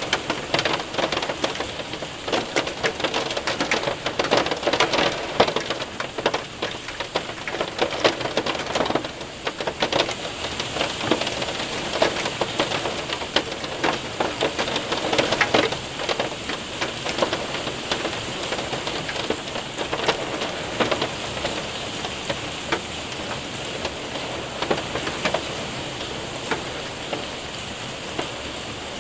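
Hail and rain hitting a window and roof: a dense run of sharp hits over a steady rain hiss. The hits thin out and grow quieter about halfway through.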